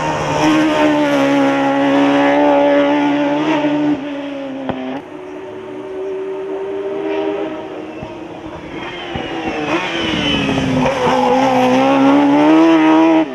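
Race car powered by a Suzuki GSX-R 1000 inline-four motorcycle engine, run hard at high revs. The pitch falls about four seconds in as the throttle comes off, stays lower for a few seconds, then climbs steadily and holds high near the end.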